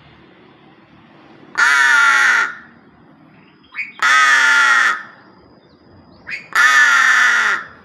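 Pet crow cawing: three loud, harsh, drawn-out caws of about a second each, evenly spaced, with short faint calls between them.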